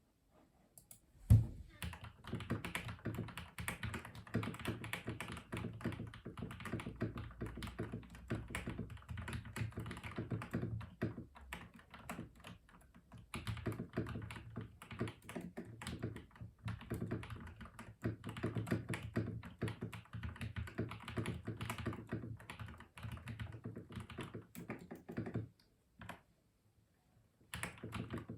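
Custom mechanical keyboard being typed on in a fast, continuous run of keystrokes, with a brief lull midway, stopping near the end, followed by a few single keystrokes. A single loud knock about a second in starts the run.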